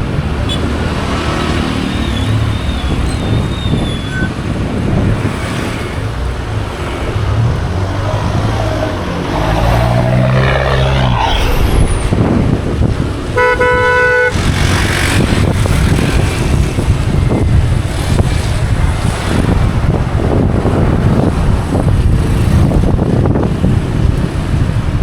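Motorcycle riding along a street: steady engine and road noise with wind on the microphone, the engine note rising as it speeds up about ten seconds in. A vehicle horn sounds once for about a second a little past the middle.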